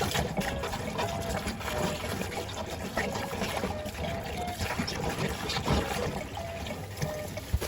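Water running and splashing, with scattered light knocks.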